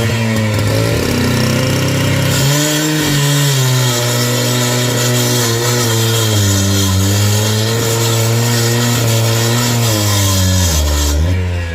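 An engine running steadily, its speed rising and falling slowly.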